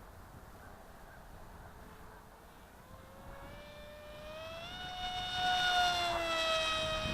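The electric motor and propeller of a Crash Test Hobby Scythe flying wing whine as it flies past. The whine grows louder and rises in pitch, is loudest about six seconds in, then drops in pitch as it passes. Wind rumbles on the microphone underneath.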